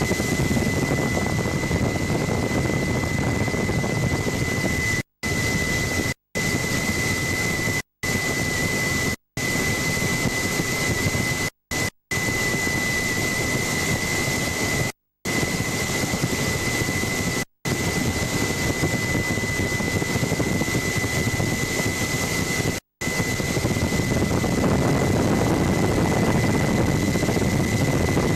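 Helicopter engine and rotor noise from on board: a steady, even noise with a constant high whine, cut to silence for a split second about eight times.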